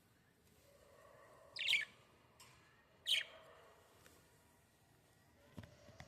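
A small bird gives two sharp chirps about a second and a half apart, each falling quickly in pitch, and a short low knock comes near the end.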